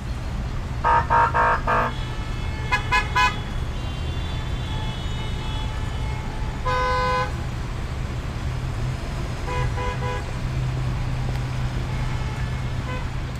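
Car horns honking in quick groups of short toots, with one longer honk about seven seconds in, over a steady low hum of traffic.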